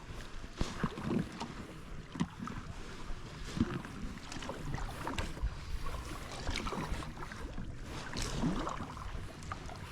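Kayak paddling: the paddle blades dipping and water dripping and splashing beside the hull in small, irregular splashes.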